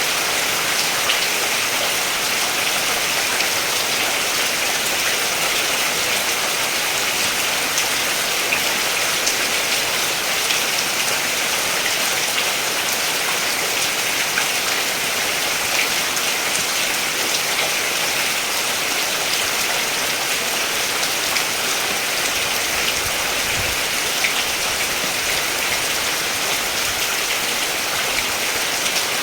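Steady rain falling and pattering on surfaces, an even hiss with fine drop ticks.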